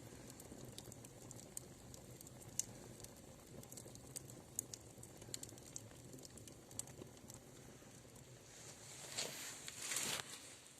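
Wood fire crackling in the open firebox of a brick stove-fireplace, with faint scattered pops and clicks. A brief louder rustling swell comes near the end.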